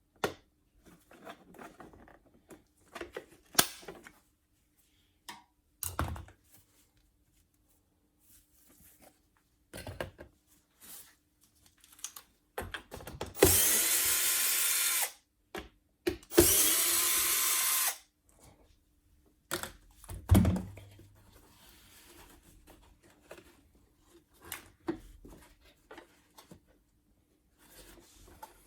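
Cordless drill-driver run twice, each time for about a second and a half, a little after halfway through. Scattered clicks and knocks of parts being handled come before and after.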